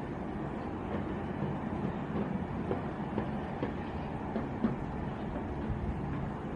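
Steady low rumble of jet airliner engines, with a few faint clicks.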